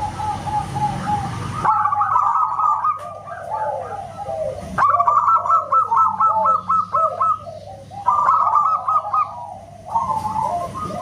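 Zebra doves (perkutut) cooing: fast runs of short, repeated notes, several calls overlapping. The sound changes abruptly a few times, as where recordings are spliced together.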